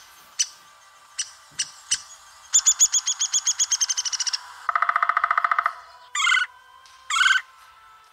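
Woodpecker sounds: a few single sharp taps, then a rapid run of calls that falls slightly in pitch, a fast rattle, and two short calls near the end.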